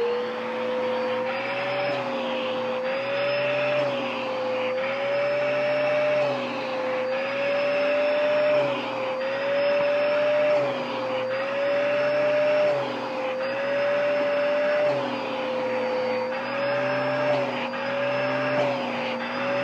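Vacuum cleaner running with the hose attachment, a steady motor whine whose pitch rises and dips about every two seconds.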